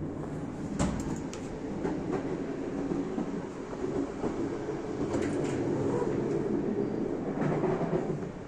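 Passenger train running on the rails: a steady rumble with scattered clicks and knocks from the wheels and carriage.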